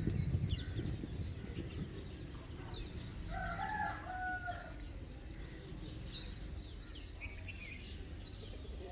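A rooster crowing once, about three seconds in, with small birds chirping on and off throughout.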